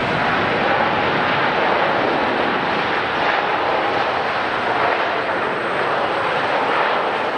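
Jet airliner engines running, a steady rush of noise that holds an even level throughout.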